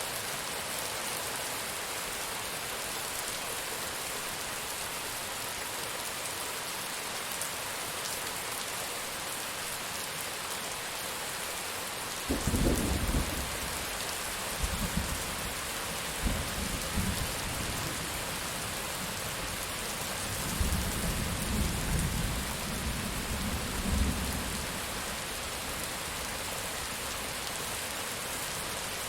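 Steady heavy rain, with a roll of thunder that breaks in sharply about twelve seconds in and rumbles on in several surges for about twelve seconds before fading back into the rain.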